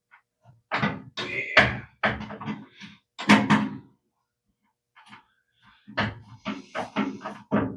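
Knocks and clicks of hand tools and metal parts being handled as screws on a gas water heater's burner assembly are tightened down, in two bursts with a pause of about two seconds between.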